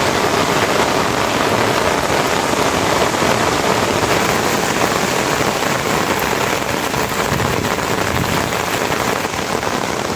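Steady rain falling, an even, dense hiss of drops on surfaces.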